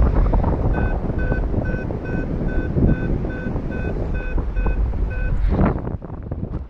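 Wind rushing over the microphone in flight, with a paraglider variometer beeping steadily at one pitch, about two to three beeps a second, for several seconds: the climb tone that signals rising air. A stronger gust of wind comes in just after the beeping stops.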